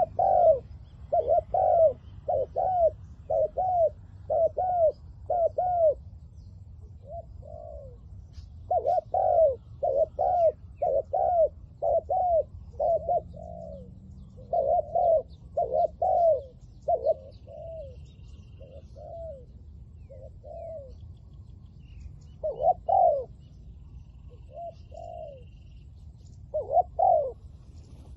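Spotted dove cooing: runs of short, arched coo notes, a little over one a second, broken by pauses of a second or two.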